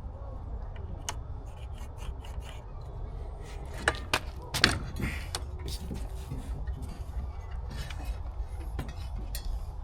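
Wood being handled: rubbing and scraping on a board with scattered light knocks, and a few sharper clacks about four to five seconds in, over a steady low hum.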